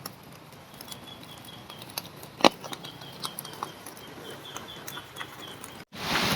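Small open cooking fire crackling with scattered pops as corn roasts in its husks on it, one sharp pop louder than the rest about two and a half seconds in. A faint high chirping pulses in the background in the second half.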